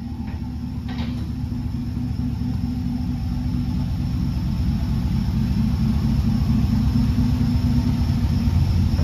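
LS V8 engine running steadily through a freshly installed Carven muffler with dual tips, a low even rumble that grows slowly louder.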